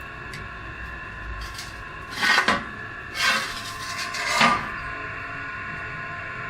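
Steady machine hum with three harsh scraping strokes about a second apart, like metal being worked with a hand tool in a workshop.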